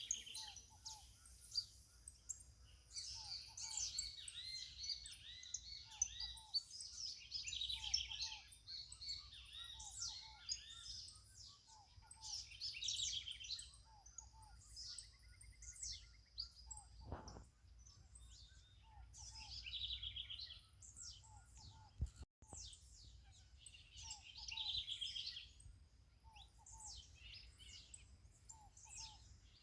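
Several birds chirping and singing together in high, quick notes and trills. A lower two-note call repeats every couple of seconds, over a faint low rumble.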